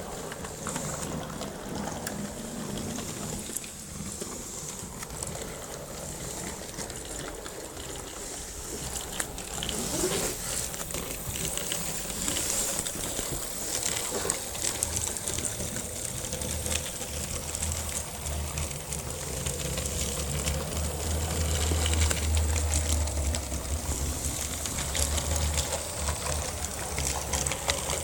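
Plastic-kit model electric locomotive's 280 DC motor and gears running as it hauls wooden freight cars, with a high hiss and many small clicks from the wheels on the track. It grows louder past the middle, with a low rumble joining in.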